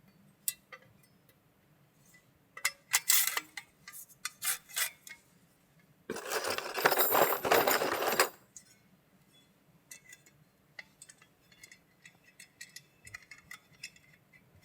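Unpacking a portable cardboard shooting target: scattered clicks and light clinks of handling, then about two seconds of loud rustling of the packaging a little past the middle.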